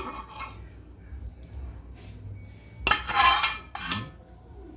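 Metal kitchen utensils clinking and scraping against pots and pans, with a louder clatter about three seconds in.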